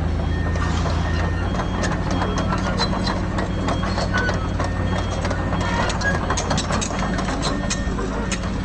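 Heavy diesel construction machinery running steadily, with a vehicle's reversing beeper sounding during the first few seconds and scattered metallic clanks and knocks.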